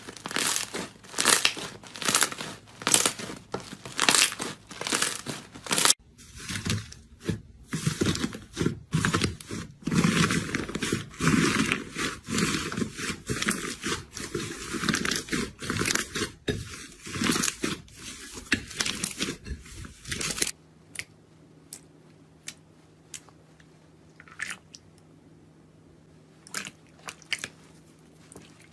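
Crunchy material being squeezed and crushed by hand, with quick, repeated crunches about two a second at first, then a denser crackling crunch. About 20 seconds in the crunching stops, leaving a low steady hum and a few sparse light clicks.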